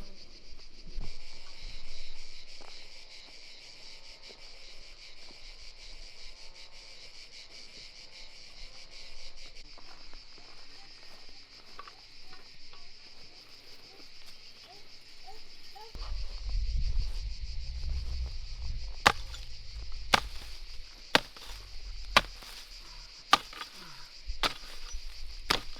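Steady, dense chirring of insects throughout. From about two-thirds of the way in, sharp knocks come about once a second, over a low rumble.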